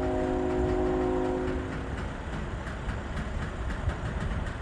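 Norfolk Southern locomotive air horn sounding a chord, one blast of about two seconds that stops about two seconds in. Underneath it, the steady rumble of a freight train rolling on the rails.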